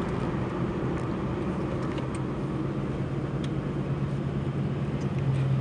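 Twin-turbocharged Ford GT V8 running steadily, a constant low hum over road or wind noise, the hum growing stronger near the end.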